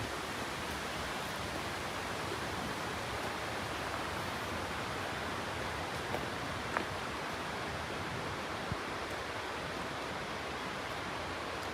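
Steady, even rush of water, a waterfall or the levada's flowing water, with one faint click about seven seconds in.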